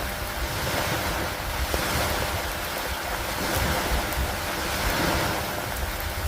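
Steady storm ambience: rain and wind over lake water, a continuous hiss with a low rumble underneath. It swells and eases every couple of seconds, with no distinct thunderclap.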